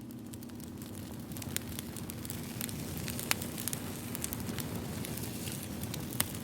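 Campfire wood crackling and popping: a steady low rumble with irregular sharp snaps, two louder pops about three seconds in and near the end.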